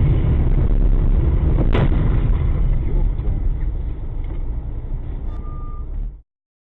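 Vehicle driving with a steady low road and engine rumble, a single sharp knock about two seconds in and a short beep near the end; the sound cuts off abruptly about six seconds in.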